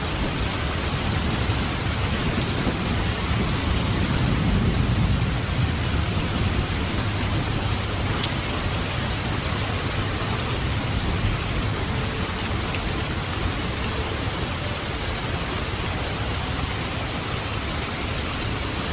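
Heavy rain falling steadily, a dense even hiss of the downpour. A low rumble swells and fades about three to six seconds in.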